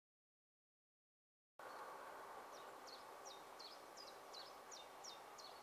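Dead silence for about a second and a half, then faint outdoor background hiss with a small bird repeating a short, high call that drops sharply in pitch, about eight times at roughly three calls a second.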